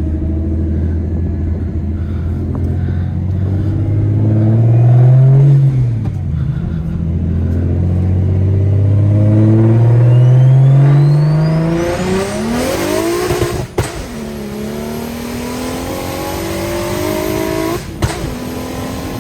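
BMW N54 inline-six with a single-turbo conversion pulling hard at full throttle: the engine note climbs, drops at a gear shift about six seconds in, and climbs again, with a rising turbo whistle near the top. As the pull ends, sharp cracks come from the exhaust, once about two-thirds of the way in and again near the end.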